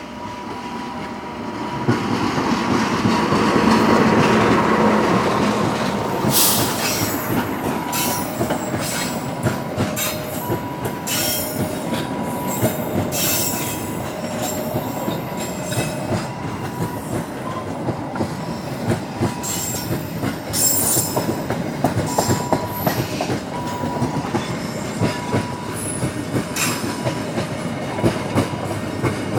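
A train rolling slowly past: the locomotive's sound swells to its loudest about four seconds in, then the wagons go by with a steady rumble and many sharp clacks and wheel squeals over the rail joints. A faint beeping tone repeats in the background.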